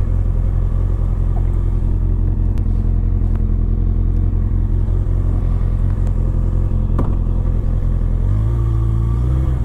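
Motorcycle engine and road noise while riding at steady speed, heard from the rider's microphone. A clearer engine note comes in near the end.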